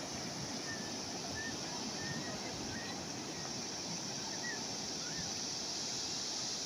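Calm sea waves washing steadily, with faint short high chirps scattered through.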